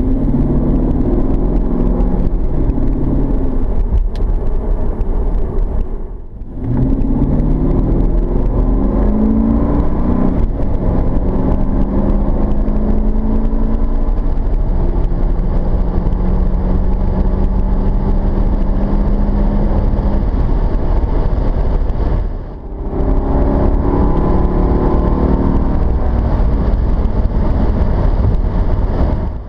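Mercedes-Benz E55 AMG (W210) M113 V8 through its stock exhaust, heard from inside the cabin, slightly muffled by the camera case. The engine note climbs in several runs, holds steady for a long stretch in the middle, and drops off briefly twice, about six seconds in and again near twenty-two seconds.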